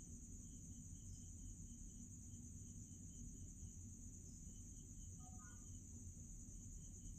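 Faint, steady, high-pitched insect drone over a low rumble, with a brief faint chirp about five seconds in.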